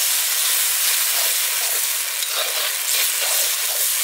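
Greens, onion and tomato sizzling in hot oil in a black iron wok over a wood fire. The sizzle steps up at the start and then holds steady, with the scrape of a metal ladle stirring through it.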